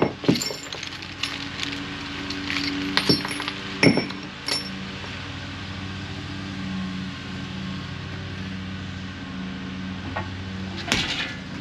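Metal tools and hardware clinking and knocking against the steel parts of a tackling sled during assembly, a few sharp clanks near the start, around three to four seconds in and again near the end, with a steady low hum underneath.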